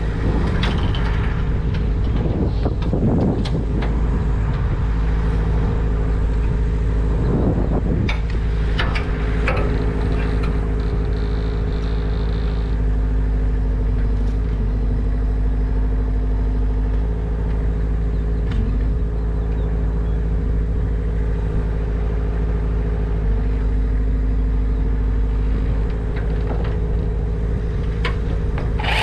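A heavy engine running steadily at one speed, with a few brief knocks and clatters in the first ten seconds or so.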